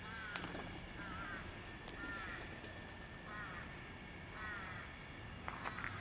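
A bird calling over and over, about five short arched calls roughly a second apart, with a sharp click just under two seconds in.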